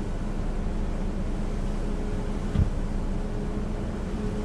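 Steady hiss with a low, even hum underneath and a single thump about two and a half seconds in.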